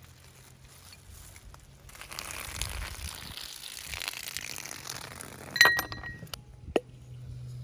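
Cooking utensils or cookware clinking. A cluster of sharp clinks with a brief ringing tone comes about two thirds of the way through, and one more knock follows about a second later, over a soft rustling hiss.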